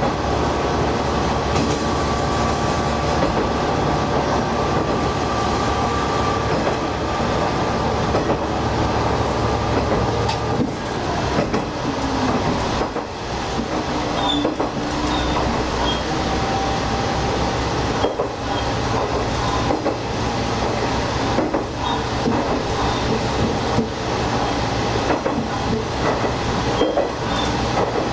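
Diesel railcar running along track, heard from the driver's cab: a steady engine drone and wheel-on-rail noise, with occasional clicks as the wheels cross rail joints.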